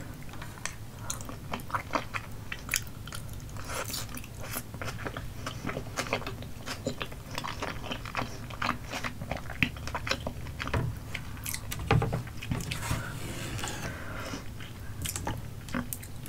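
Close-miked chewing of chewy Korean rice cakes (tteokbokki) in a spicy, cheesy sauce: a steady run of small mouth clicks and smacks.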